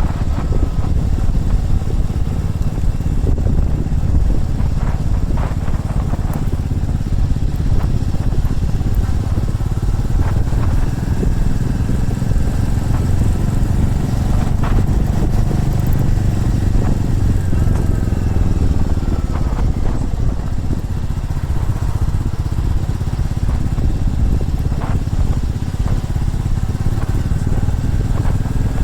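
Motorcycle engine running steadily while riding along. Its pitch rises and falls a few times with changes of speed.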